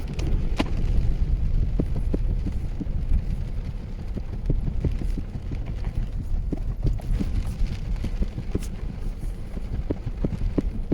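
Wind buffeting the microphone in a steady low rumble, with scattered light clicks and taps over it.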